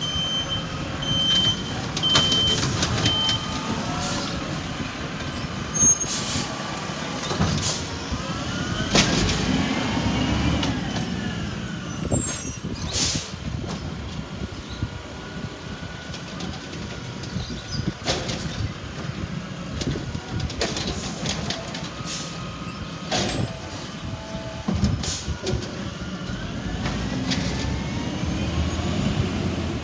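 Recycling truck working: its engine runs steadily under repeated clanks and bangs, with a rising and falling whine at times. A few short beeps sound in the first seconds.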